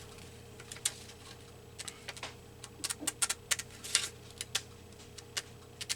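Scissors snipping through paper, irregular crisp clicks of the blades a few times a second in clusters, over a faint steady hum.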